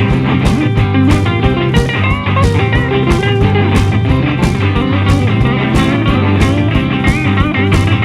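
Instrumental passage of a blues-rock song: guitar playing with a few bending notes over a steady beat of about two strikes a second.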